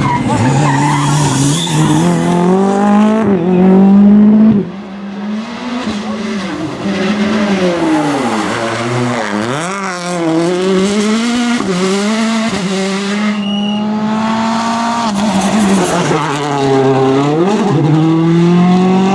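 Turbocharged four-cylinder rally car engines at full throttle, revving hard up and down through quick gear changes as the cars pass. Three or so separate passes are cut together, with sudden changes in level about five seconds in and again past halfway.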